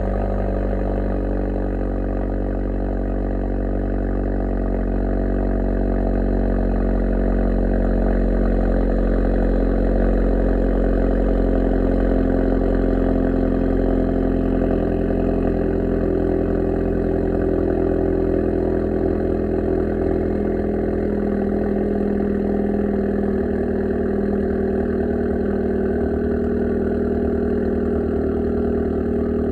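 2023 Acura Integra's turbocharged four-cylinder idling steadily just after a cold start, breathing through a Magnaflow exhaust, PRL midpipe and TSP downpipe. The low exhaust tone shifts slightly about two-thirds of the way through.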